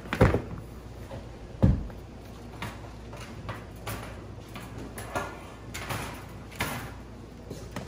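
Rabbit cage kit parts knocking and rustling as they are handled and unpacked from their box. Two sharp knocks come early, the second about two seconds in, followed by lighter taps and rustles.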